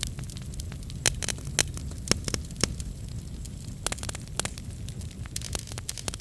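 Wood fire crackling, with sharp irregular pops over a low steady rumble of the flames.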